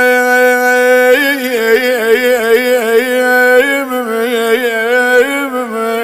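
A man's solo voice singing an Arabic mourning lament (nai). He holds one long steady note, then about a second in breaks into a wavering, ornamented run of melisma on the drawn-out vowel, with no words.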